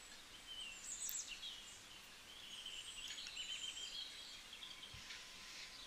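Faint chirps and short whistles of birds singing in the background, repeating throughout.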